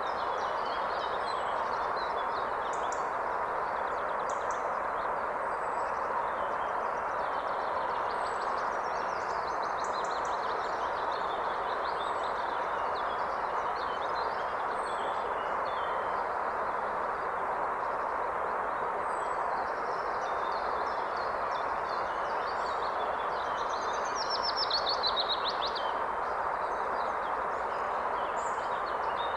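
A forest river or stream rushing steadily, with songbirds calling over it. Near the end a bird gives a louder, rapid phrase.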